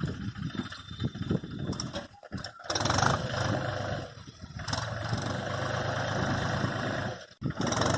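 Mahindra tractor's diesel engine running hard, louder and steadier from about three seconds in, with two short breaks.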